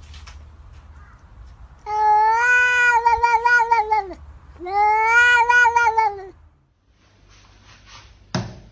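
A cat giving two long, drawn-out meows, each about two seconds, with a short pause between them. A single thump comes near the end.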